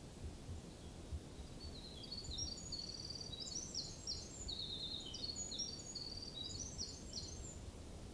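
A small songbird singing one long, high song of rapid, jumbled trills and notes, starting about a second and a half in and lasting about six seconds, over a low steady background rumble.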